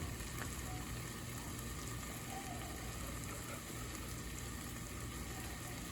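Sliced onions steaming and sizzling in a pan, a steady faint hiss, with a low steady hum underneath.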